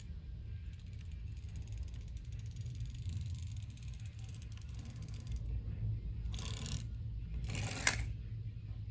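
A small plastic toy being handled: fine rapid clicking like a small gear mechanism, then two short rasping scrapes about a second apart, the second ending in a sharp click, over a steady low rumble.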